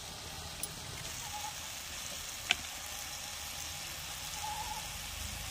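Sem (flat beans) and tomatoes frying in a kadhai, a steady sizzle, with one sharp click about two and a half seconds in.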